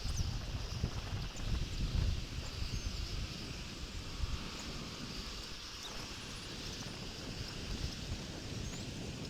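Wind buffeting an outdoor microphone: uneven low rumbling gusts, strongest in the first two seconds, then steadier, over a constant hiss.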